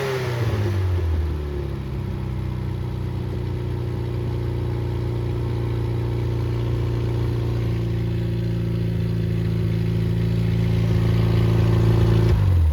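Freshly rebuilt Triumph Spitfire 1300 (1296 cc) four-cylinder engine running on a test stand. It falls from high revs back down to a steady idle in the first second or so, then idles smoothly until it is shut off at the very end.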